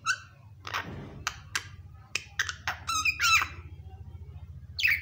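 Pet myna calling: a string of harsh squawks and clicks, then a quick run of warbling, whistled notes that swing up and down in pitch about three seconds in, and one more squawk near the end.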